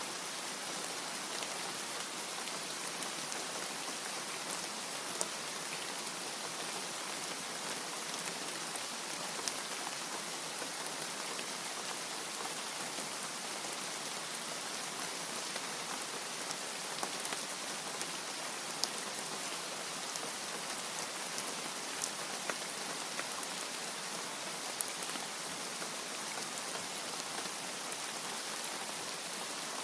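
Steady heavy rain, an even hiss with scattered sharp drop impacts every second or so; no thunder.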